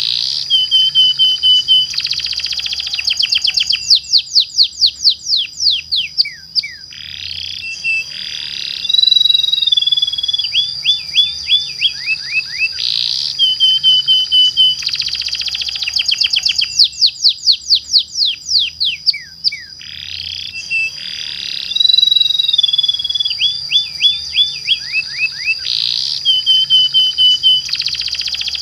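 Domestic canary singing long rolling song: fast runs of sweeping notes, buzzy trills and held whistles over a steady high tone. The same sequence of phrases repeats about every 13 seconds, as in a looped recording.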